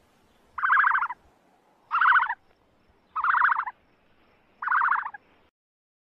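Emu calling: four short calls of about half a second each, repeated at a steady pace about every second and a half.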